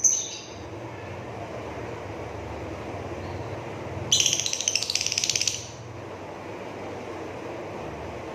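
Lovebird giving a rapid, rattling trill of about one and a half seconds in the middle, its 'ngrekek' chatter, over a steady low background hum. The tail of a shrill call fades away in the first half second.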